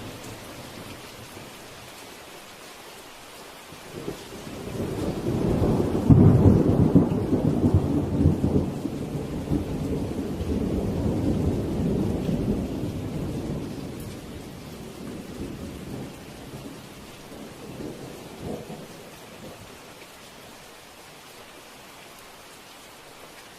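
Steady rain with a long roll of thunder. The thunder builds about four seconds in, peaks soon after, then rumbles on and slowly dies away over the next ten seconds or so.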